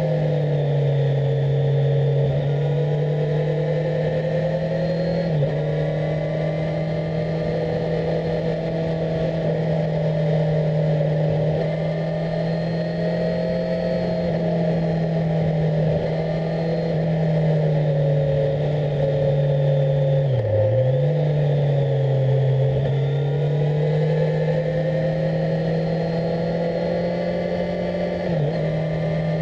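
On-board sound of a 2018 Kawasaki Z1000SX's inline-four engine running steadily. Its pitch drops and recovers a few times, most deeply about two-thirds of the way through, with a rushing haze of wind underneath.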